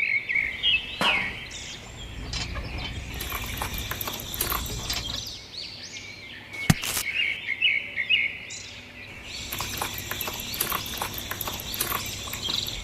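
Small birds chirping in bouts of quick short calls over a steady low background rumble, with a single sharp click about seven seconds in.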